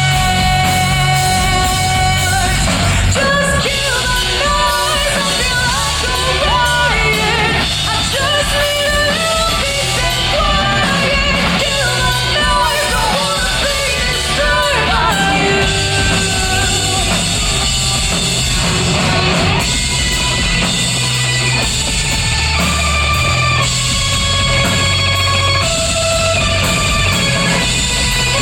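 Live rock band playing loud in a large room: a singer carrying a melody over drum kit and electric guitar.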